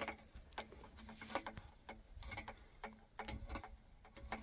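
Irregular light clicks and taps, a few a second, like small hard parts or hand tools being handled, with a faint low hum coming and going.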